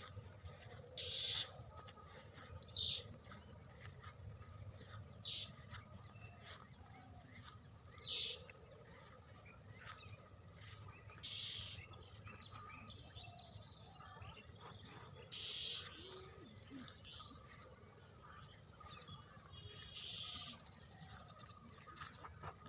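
Birds calling: short, high calls every two to four seconds, several of them quick sweeps in pitch, over a faint low background hum.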